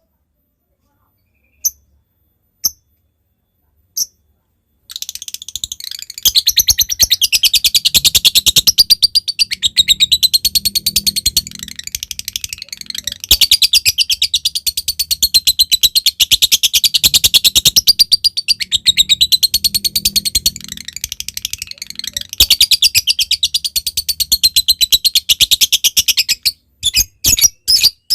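Lovebird singing: a few single sharp 'tik' notes, then a long, rapid, unbroken chattering trill (the 'ngekek' of a lovebird in full song) lasting about twenty seconds, with two brief breaks. It ends in a few spaced chirps.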